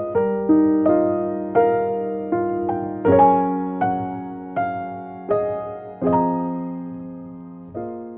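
Background piano music: slow, gentle single notes and chords, each struck and left to fade before the next, roughly one to two a second.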